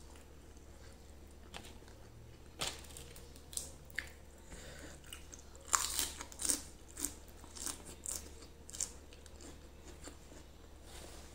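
Close-up mouth sounds of someone chewing a mouthful of grilled chicken and rice: a run of short, sharp crunches, loudest about halfway through.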